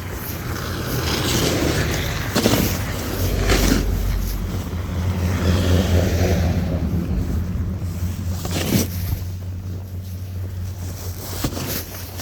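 A motor vehicle driving past on a snowy road: its low engine hum and tyre noise build over the first couple of seconds and fade away about eight seconds in. A few short scrapes of a snow shovel sound alongside it.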